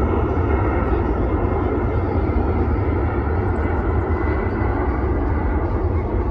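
Aircraft engine noise from an airshow plane flying past, a loud steady rumble with no breaks.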